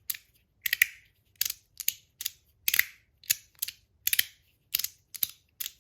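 3D-printed Verk haptic slider fidget being slid back and forth, each stroke ending in a sharp click, some clicks doubled, about two a second.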